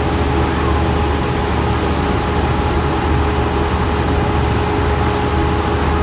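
Steady rush of flowing water from water-park slides and features, with a low rumble and a faint steady hum from the pumps.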